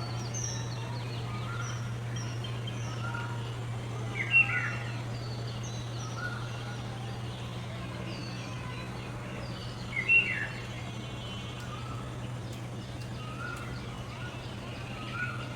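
Several birds calling outdoors: many short chirps at different pitches, with two louder calls about four and ten seconds in. A steady low hum runs underneath.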